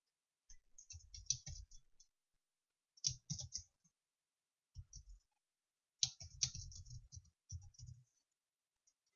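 Rapid clicking and rattling in four short clusters, the longest near the end, with gaps of silence between them.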